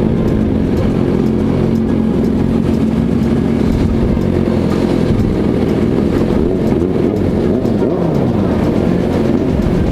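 Vehicle engines running and revving, with several engine notes rising and falling over one another in the second half.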